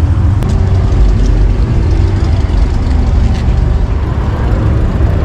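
Car engines running, a loud, steady low rumble.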